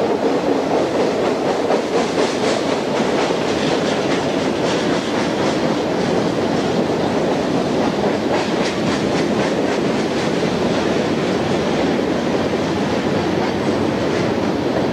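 A train rolling past close by: a steady rumble of steel wheels on the rails, with occasional clusters of clicks as the wheels cross rail joints.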